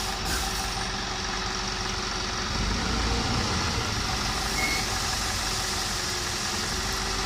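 Diesel engine of an Ashok Leyland 3525 tipper truck running steadily, with a brief deeper rumble about three seconds in.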